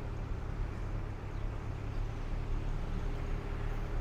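Steady low rumble of an engine running somewhere down the street, with a faint held hum and general street noise.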